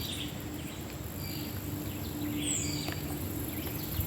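Tropical forest ambience: insects keep up a steady high-pitched drone while a bird repeats a call of a short falling note and a harsh buzzy note, about every three seconds.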